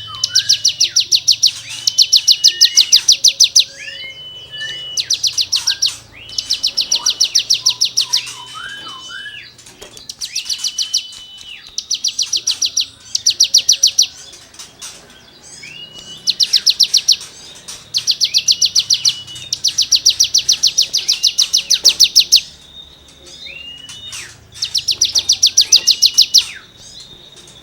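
Hill prinia (ciblek gunung) singing hard: repeated bursts of very rapid scraping trills, each a second or two long, alternating with short rising whistled notes.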